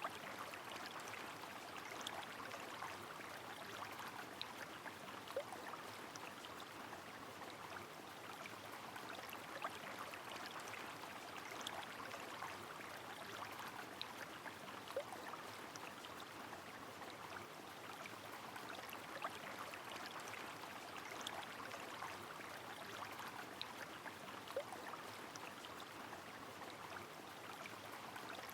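Steady rush of a river in the rain, with scattered sharp ticks of single drops falling over an even wash of water noise.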